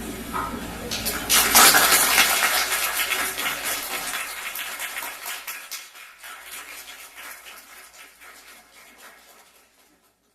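Small audience applauding, breaking out suddenly about a second in, then thinning out and fading away.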